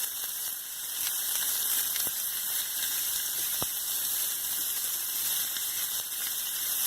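Rump steak and mushrooms frying in hot olive oil in pans, giving a steady sizzle with two faint pops about two and three and a half seconds in.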